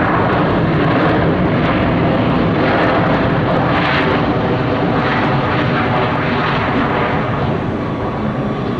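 Jet engine noise from an arriving Boeing 737-900 with twin CFM56 turbofans, loud and steady, easing slightly near the end.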